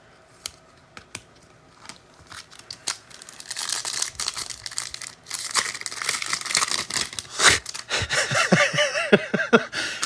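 Foil trading-card pack wrappers being torn open and crinkled, starting with a few light clicks and taps and growing into steady loud tearing and crinkling from about three seconds in.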